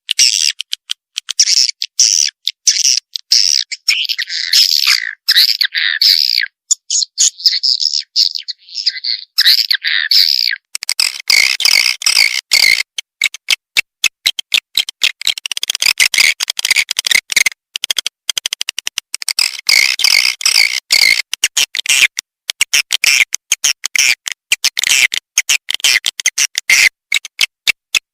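Recorded swiftlet calls played as a swiftlet-house lure: a dense, fast stream of high chattering chirps and clicks. About eleven seconds in, the track changes to a thicker, fuller chatter.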